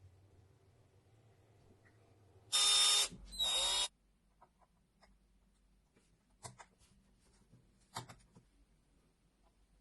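A small power tool's motor running in two short bursts, a little over two seconds in, each about half a second long. Light clicks and taps of handling follow.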